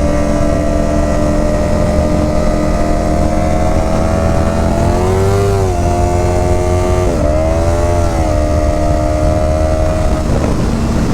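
Motorcycle engine running while riding, over a low road and wind rumble. The engine note rises and falls twice, about five and seven seconds in.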